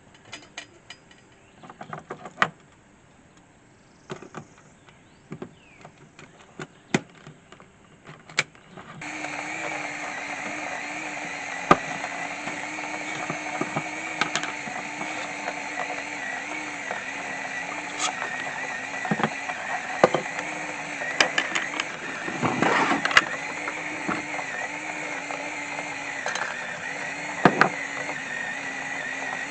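A few clicks and taps of handling, then about nine seconds in a small electric coffee grinder starts up and runs steadily, grinding coffee beans.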